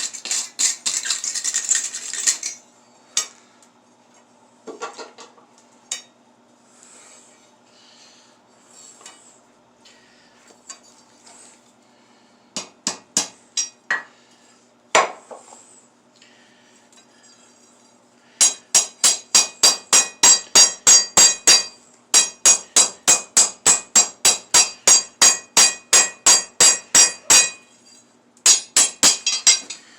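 Hand hammer striking hot steel on an anvil: a few scattered blows, then long steady runs of ringing strikes at about three to four a second.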